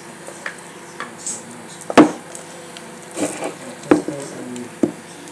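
Dishes being handled and set down on a table: a handful of sharp knocks and clatters, the loudest about two seconds in.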